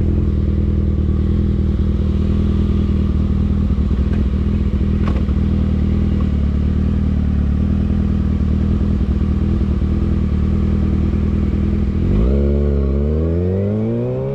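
Motorcycle engine running at a steady cruising speed, then dipping and rising in pitch over the last couple of seconds as it accelerates.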